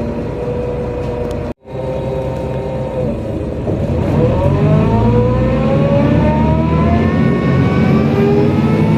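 NefAZ-5299 city bus heard from inside: the engine runs steadily with a constant whine, the sound drops out for an instant about a second and a half in, then from about four seconds the bus accelerates, its engine and drivetrain whine rising steadily in pitch as the rumble grows louder.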